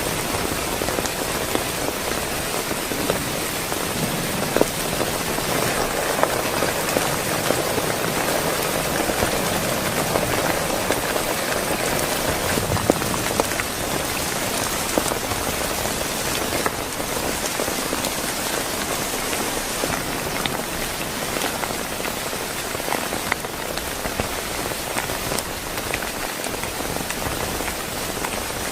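Heavy rain falling steadily, with scattered sharper drop impacts standing out.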